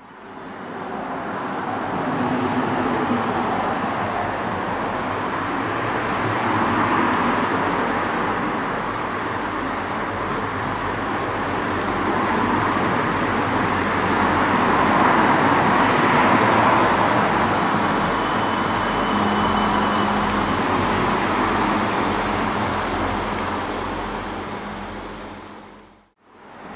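A train running through the station: a steady rolling rumble of wheels on rail that swells and eases over about twenty seconds. A low steady hum joins in the last few seconds. The sound fades in at the start and fades out near the end.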